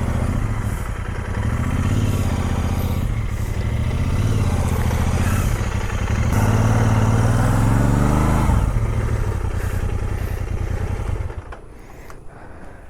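Motorcycle engine running under load, revving up from about six seconds in to a peak near eight and a half seconds, then falling away sharply near the end.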